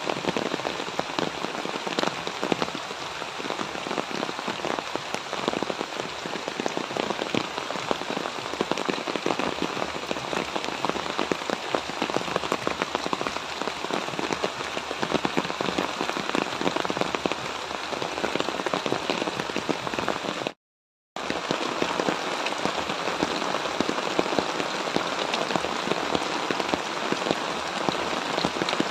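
Light rain falling on the leaves of chili plants and flowers: a dense, steady patter of many small drops. It cuts out completely for about half a second about two-thirds of the way through.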